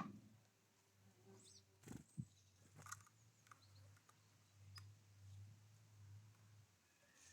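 Faint wild bird chirps, a few short high calls, with several soft knocks about two and three seconds in.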